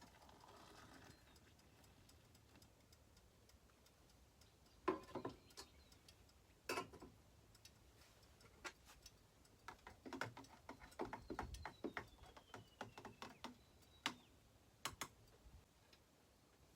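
Scattered light clicks and knocks over a very quiet background, with two louder knocks about five and seven seconds in and a run of lighter ticks in the second half.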